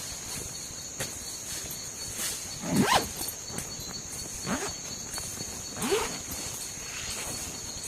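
Steady high insect chorus of the rainforest at night, with three short squeaks that slide sharply upward in pitch about three, four and a half and six seconds in. Scattered light knocks are also heard.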